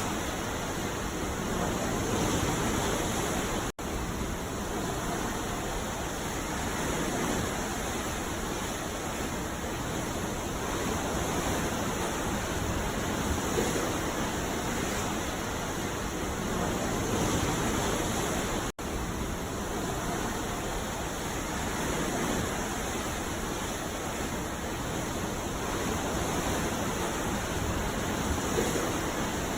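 Ocean surf washing on a beach: a continuous rush of waves that swells and eases gently every few seconds. The sound cuts out for an instant twice.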